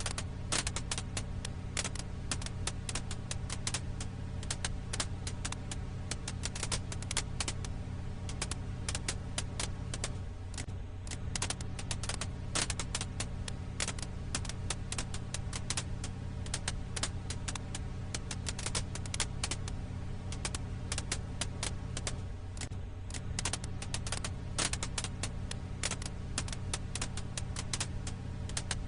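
Firewood crackling in a campfire: dense, irregular sharp pops and snaps over a steady low hum.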